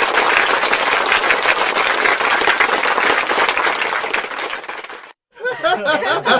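Audience applause sound effect: a dense patter of many hands clapping that stops abruptly about five seconds in. After a short gap an audience starts laughing near the end.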